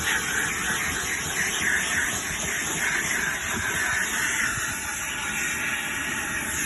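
Car wash jets hissing steadily, a continuous rushing spray noise that eases slightly about two-thirds of the way through.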